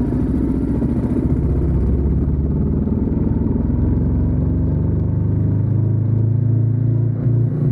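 Ducati Diavel 1260S's 1262 cc V-twin engine running under way, with a deep, steady note whose pitch pattern shifts about halfway through.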